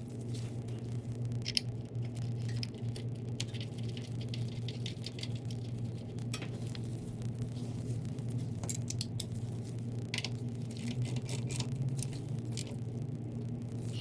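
Scattered light clicks and taps of hand tools and metal hardware as a passenger footboard is bolted back onto a motorcycle, over a steady low hum.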